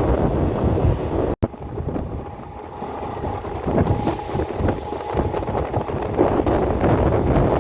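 Wind buffeting the microphone over the running noise of a moving passenger train, with a brief cut to silence about a second and a half in.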